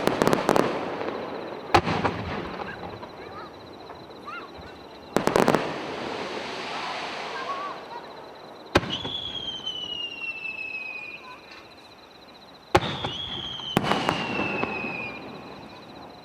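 Aerial fireworks shells bursting, with sharp bangs and clusters of rapid crackles about six times. After two of the bangs a high whistle falls slowly in pitch for a couple of seconds.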